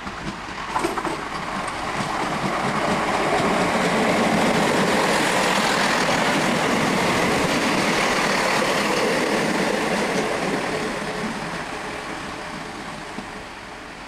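A Networker Turbo diesel multiple unit passes close by, its diesel engines and wheels on the rails swelling to a steady peak and then fading away. A few sharp clicks sound about a second in.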